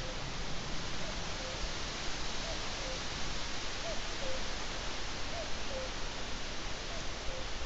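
Steady hiss from the webcam's microphone, with a bird far off repeating a two-note call, a higher note then a lower one, about every one and a half seconds.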